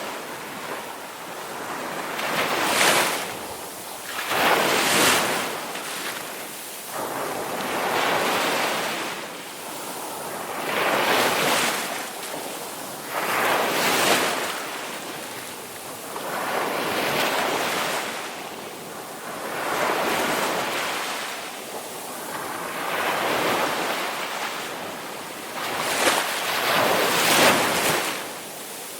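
Ocean surf: waves breaking and washing in, a hissing swell roughly every three seconds.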